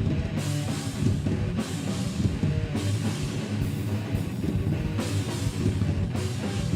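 A heavy metal band playing live: distorted guitars, bass and a pounding drum kit with cymbals, in an instrumental passage between vocal lines.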